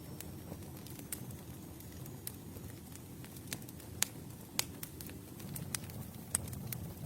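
Wood campfire burning: a low steady rumble of flames with irregular sharp crackles and pops from the burning wood, the loudest snaps about four, four and a half and six and a half seconds in. A faint high whistle fades out over the first couple of seconds.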